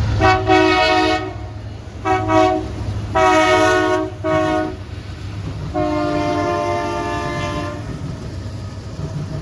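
Freight train's diesel locomotive horn blown five times in a row as a horn show: four short blasts and a last, longer one, each a chord of several tones, over the train's steady low rumble.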